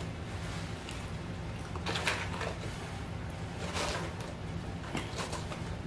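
Chewing and mouth sounds of someone eating fast food close to the microphone, with a few short louder smacks or crunches about two, four and five seconds in, over a steady low hum.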